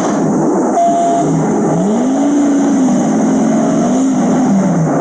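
Vehicle engine revving hard, its pitch climbing and falling back several times as the throttle is worked. A short steady beep-like tone sounds about a second in.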